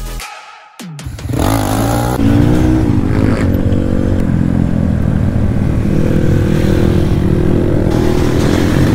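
Dirt bike engine starting to run about a second in, revving up and down a few times, then running steadily at a fairly constant speed.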